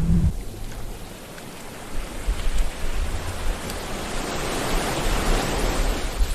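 Sea waves washing onto the shore, with the surf swelling to a broad surge about five seconds in and easing off near the end, over a low rumble.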